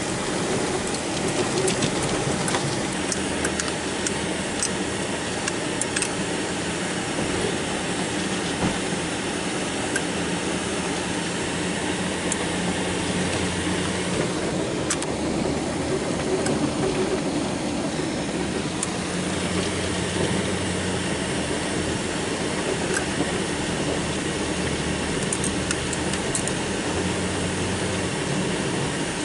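Engine of a snow-plowing vehicle running steadily as it pushes snow, a constant low hum under a wash of noise with scattered faint ticks.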